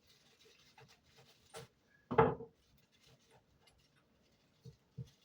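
Handling and rustling noises, with one loud knock about two seconds in and two softer knocks near the end.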